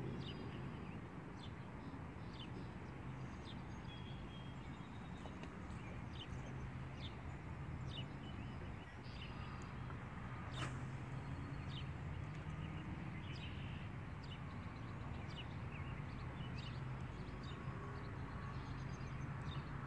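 Birds chirping now and then over a steady low hum, with one sharp click about ten and a half seconds in.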